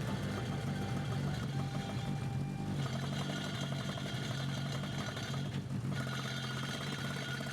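Toyota AE86 Levin's engine idling steadily.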